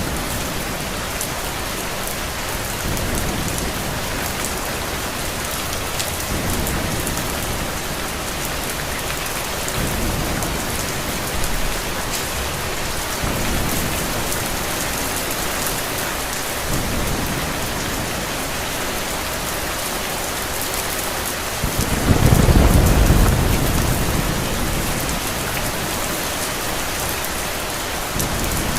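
Steady rain pouring, with a loud roll of thunder rising about three-quarters of the way through and slowly fading, and fainter low rumbles before it.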